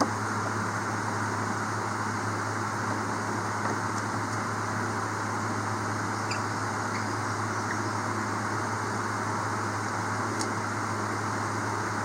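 Steady machine hum with an even hiss, like a running fan or motor, with a few faint light ticks.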